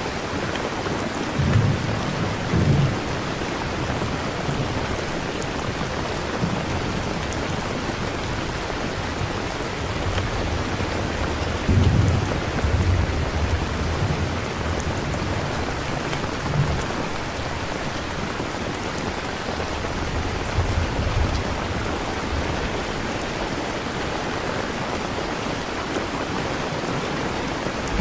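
Steady rain ambience with low rolls of thunder, a few seconds in, around the middle and again later on.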